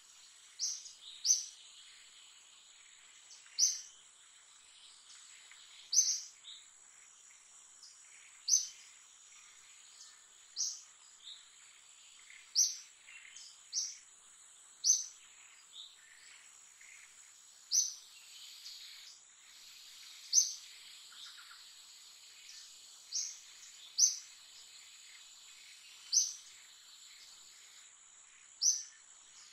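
Forest ambience: a bird repeats a short, high call about every two seconds over a steady, high-pitched insect drone.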